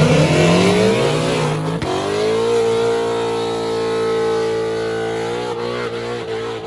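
A car engine accelerating hard, its pitch climbing, with a gear change about two seconds in, then pulling on at high revs and easing off near the end.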